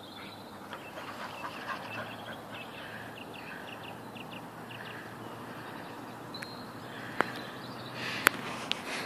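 Outdoor ambience with birds chirping in short repeated calls. A few sharp clicks come near the end.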